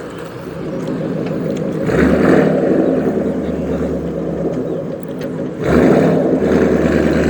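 A car engine running loud and revving, surging up about two seconds in and again near six seconds in.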